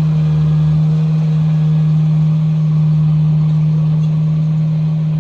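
Komatsu bulldozer's diesel engine running steadily, a constant low drone with no change in speed.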